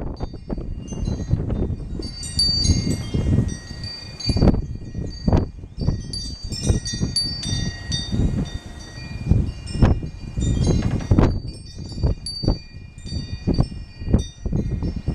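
Wind chimes ringing irregularly in gusty wind, many high metal tones overlapping and dying away. Gusts of wind rumble on the microphone throughout.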